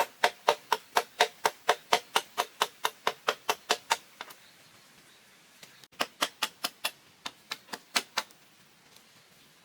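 Rapid chopping with a blade, about four even strokes a second: a run of some four seconds, a pause, then a shorter run near the middle.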